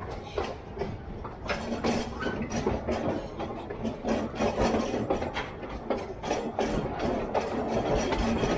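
Narrow-gauge train running, with frequent irregular knocks and rattles over a steady low mechanical hum.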